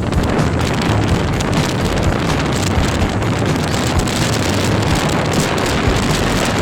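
Wind buffeting the microphone on a moving motorcycle, with the engine's steady low drone underneath.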